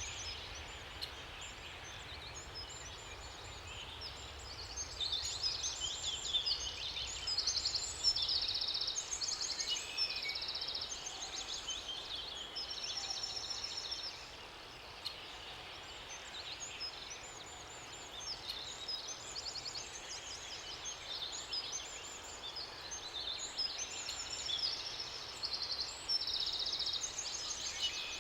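Several songbirds singing over and over, with short high trills and chirped phrases overlapping, over a faint steady hiss of water.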